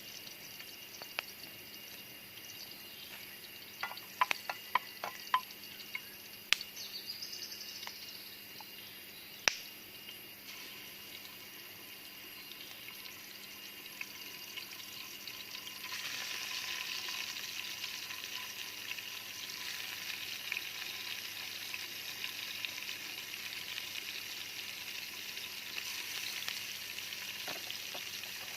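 Food sizzling as it fries in a pan, the sizzle growing louder a little past halfway. A handful of sharp clicks and knocks come in the first third.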